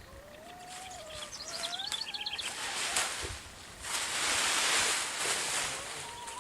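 Birds singing, with whistled gliding notes and quick chirps. About four seconds in, a louder rustling noise comes in for a couple of seconds.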